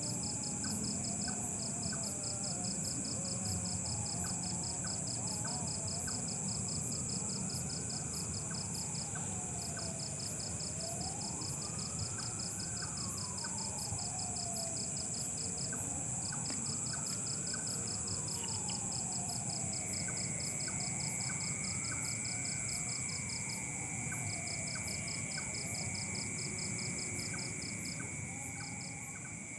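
Night insect chorus: crickets chirping in rapid pulsed trains over a steady high insect drone. A fainter wail rises and falls about four times in the middle.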